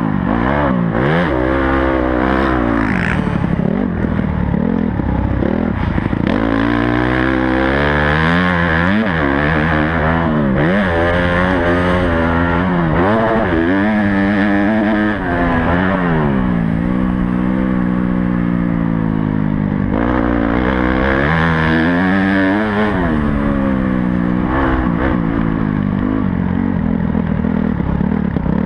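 Honda CRF250 motocross bike's four-stroke single-cylinder engine at close range, revving up and falling back again and again as the rider opens and closes the throttle lap after lap, holding a steady high pitch for a few seconds around the middle.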